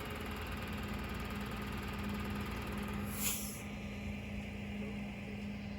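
A vehicle engine idling with a steady low hum, broken by one short hiss a little past halfway.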